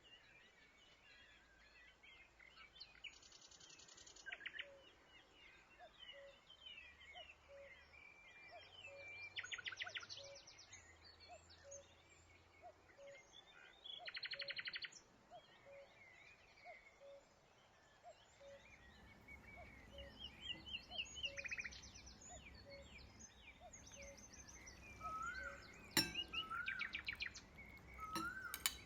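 Birds chirping, with several short rapid trills and a faint note repeated about every half second. A sharp click comes near the end.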